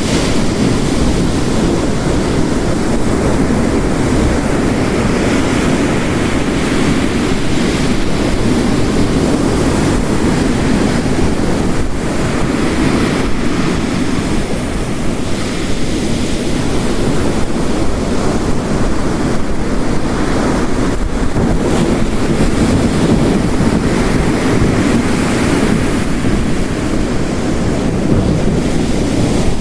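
Ocean waves crashing on a rocky coast mixed with heavy rain: a dense, steady roar that swells and eases every several seconds as the surf rolls in.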